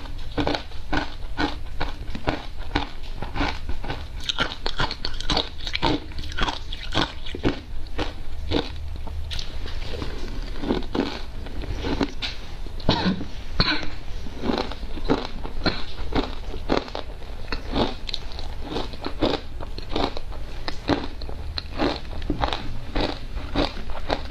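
Close-miked crunching and chewing of ice, a rapid run of irregular crisp crunches with no pauses.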